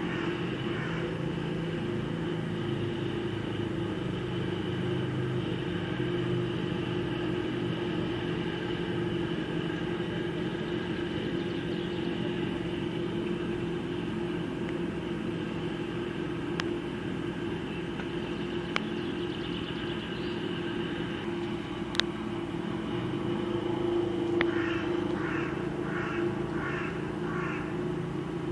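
Military helicopters droning steadily at a distance, with a constant hum. A few sharp clicks in the second half, and a short run of rapid repeated chirps near the end.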